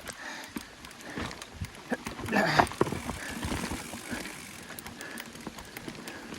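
Chromag Stylus mountain bike riding over wet limestone rock, with irregular knocks and rattles of tyres, wheels and frame on the rock. A louder burst comes about two and a half seconds in.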